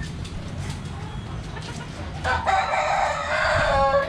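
A rooster crows once, starting about two seconds in, a loud call of nearly two seconds that drops in pitch at its end and stops abruptly. Faint short bird chirps come before it.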